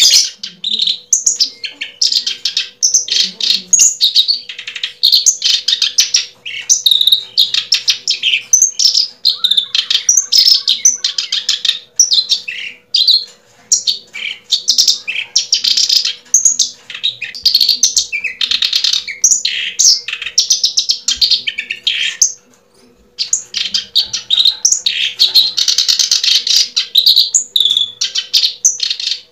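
Birds chirping and twittering in rapid, high-pitched runs of calls, almost without pause apart from a brief lull near the end. A faint steady hum lies underneath.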